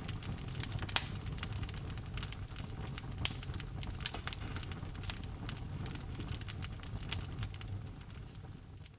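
Wood logs burning in a fireplace: irregular crackles and pops over a low steady rumble of the flames, with two sharper, louder pops about a second and about three seconds in. The sound fades out near the end.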